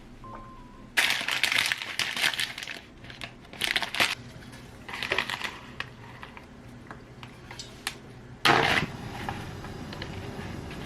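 Several short bursts of rustling, crinkling handling noise, the loudest near the end, with quiet room tone between them.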